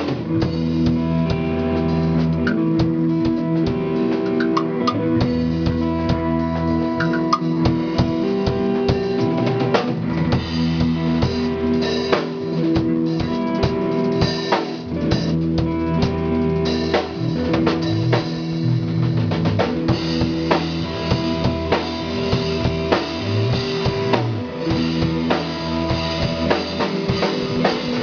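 A live band plays through a PA system during a sound check: drum kit with kick and snare, held bass notes and guitar chords.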